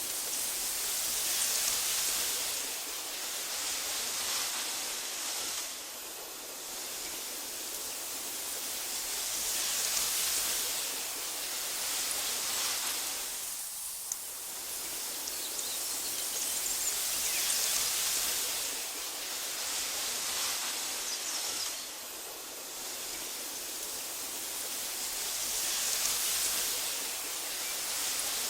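Wind blowing through tall meadow grass, a steady rustling hiss that swells and eases in slow gusts every several seconds, with a brief lull about halfway through.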